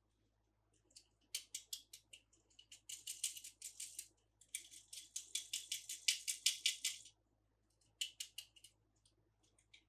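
Plastic toy packaging being handled and opened: rapid dry crackling and clicking in two long runs, then a short burst near the end.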